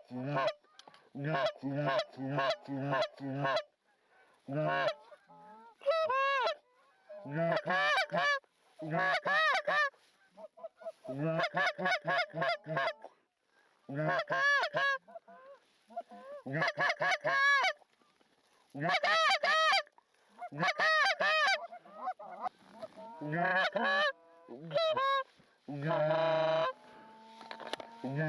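Geese honking in repeated bursts of short, arched calls with brief pauses between them. Near the end there is a longer, steadier call.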